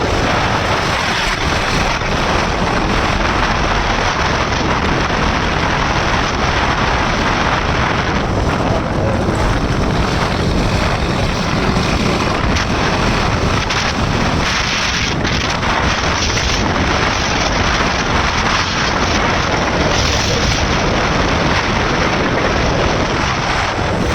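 Loud, steady wind rush on the microphone of a motorcycle riding at speed.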